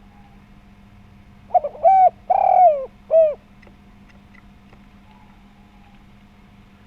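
Spotted dove giving one cooing phrase about a second and a half in: a couple of short notes, a longer drawn-out coo, then a short final coo.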